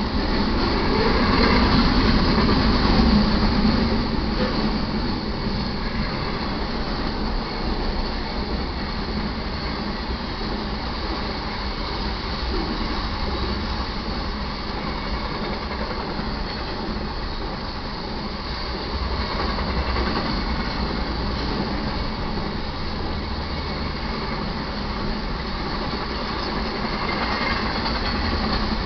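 Intermodal freight train's trailer-carrying flatcars rolling past: a steady rumble of steel wheels on rail with some clickety-clack, loudest a second or two in.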